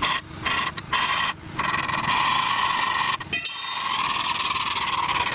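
A steady hissing noise that cuts out and starts again several times.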